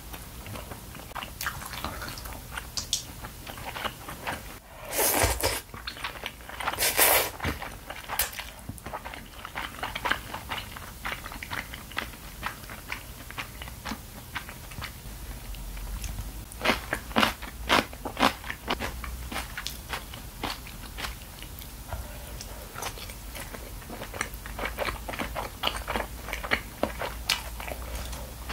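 Close-miked ASMR chewing of fish cake udon, with many small wet mouth clicks throughout. Two louder, longer noisy sounds come about five and seven seconds in.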